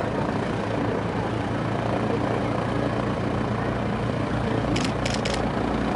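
Autogiro's propeller engine running steadily with an even hum. A few brief high clicks sound about five seconds in.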